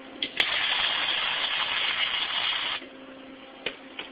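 Flux-core wire-feed welder arc crackling in one weld bead of about two and a half seconds, starting with a sharp click and cutting off suddenly. Two short clicks follow near the end.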